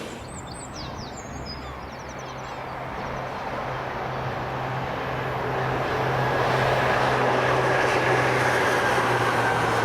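Train approaching: a steady low hum with rail noise grows louder over about six seconds, then holds. A few brief high squeaks come in the first two seconds.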